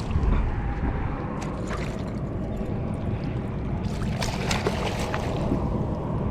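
Water sloshing around a kayak as a hooked fish is brought into a landing net, with scattered small clicks and knocks from handling the gear.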